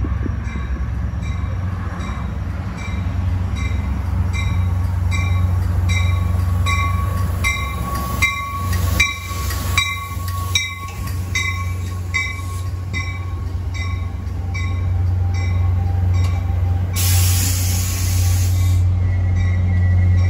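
Diesel-hauled train at close range, its engine a steady low drone, with a bell ringing about twice a second. Wheels clatter over rail joints and squeal faintly around the middle, and near the end there is a short burst of hissing air.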